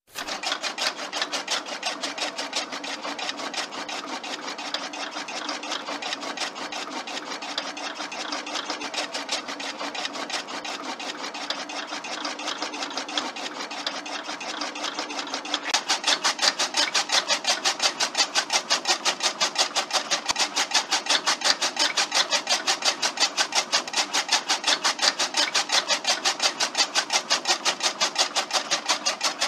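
Small electric motor of a home-made model chaff cutter running, with a rapid, even mechanical clatter from its moving parts. The clatter grows louder and sharper about halfway through.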